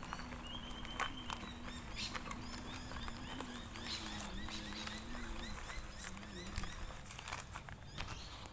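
A bike rolling slowly along a dirt bush track, its tyres crackling and ticking over twigs and gravel, with a low wavering hum under it. Birds chirp over it in short repeated high calls.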